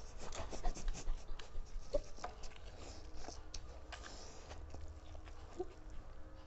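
Fast, noisy eating close to the microphone: a run of small clicks, smacks and rustles from chewing and handling food, busiest in the first two seconds.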